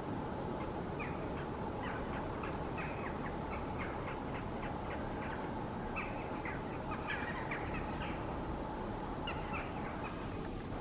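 Several birds calling with many short, sharp, downward-sliding calls, scattered and overlapping, over a steady background hum.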